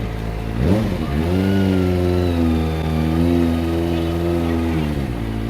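Motorcycle engine revved up about half a second in, held at a steady higher speed for a few seconds, then let back down near the end, over the steady idle of other engines.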